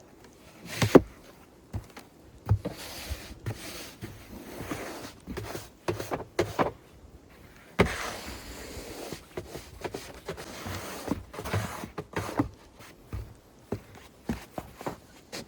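Snow shovel working through snow: scrapes along the surface and sharp knocks of the blade, at an uneven pace, with footsteps. The loudest knocks come about a second in and near 8 s, followed by a longer scrape.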